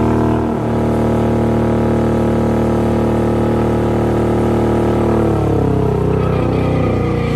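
Car engine held at high revs, a loud steady tone that turns rougher and uneven about five seconds in.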